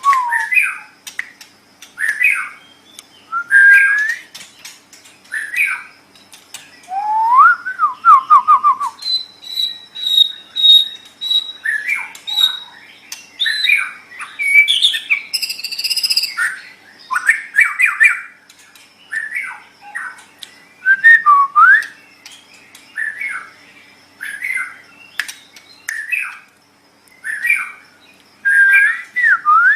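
White-rumped shama (murai batu) singing: a continuous run of short, varied whistled phrases, with a long, steady, high whistle held for about three seconds around nine seconds in.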